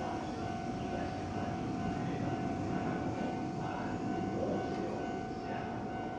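Hanshin Railway train running at a station, a steady rumble of wheels on rails with a level high-pitched tone over it.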